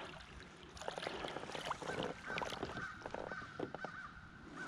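A bird, crow-like, calling several times in short harsh notes, over scattered clicks and knocks from a bass being handled in a kayak.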